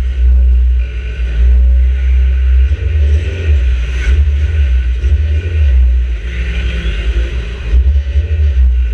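Micro banger race car's engine running hard while racing, heard from inside the stripped-out cabin as a loud, deep rumble. There is a single sharp knock about four seconds in.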